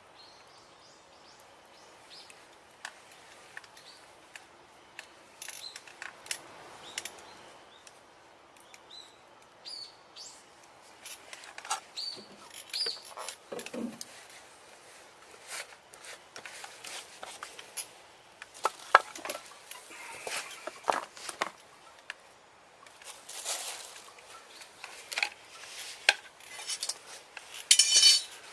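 Irregular clinks, taps and knocks of metal cookware and utensils being handled, with a louder clatter near the end.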